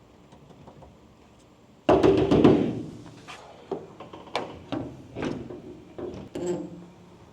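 A sudden loud clatter about two seconds in, followed by a run of sharp knocks, roughly two a second.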